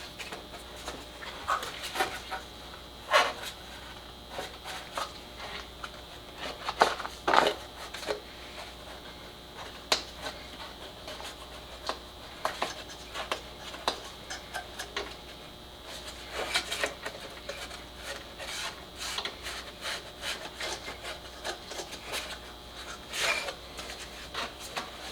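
Air filter elements and the plastic air-cleaner housing being handled and fitted: scattered rubbing, light clicks and a few louder knocks as the filters are pushed into place.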